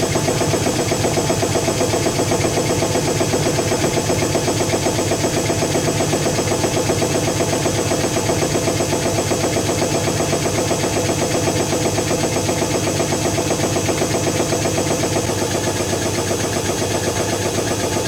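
Zanussi FC1000 compact front-loading washing machine running steadily, its drum motor giving a continuous hum with a fast vibrating texture.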